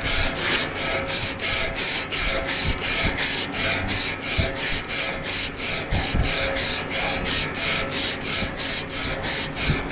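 Rhythmic rasping strokes, about four a second, in an even back-and-forth pattern that stops right at the end.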